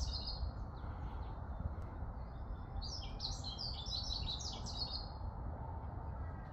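A wild songbird singing: a short burst of high chirping notes at the start, then a quicker run of chirps from about three to five seconds in, over a steady low rumble.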